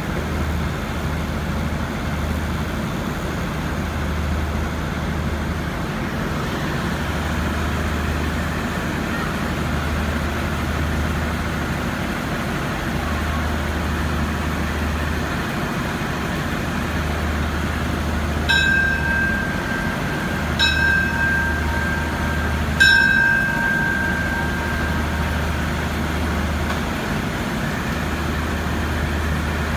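Diesel express train standing at a station platform, its engines running with a steady low rumble and hum. About 18 seconds in come three high-pitched toots, each longer than the last, the departure signals.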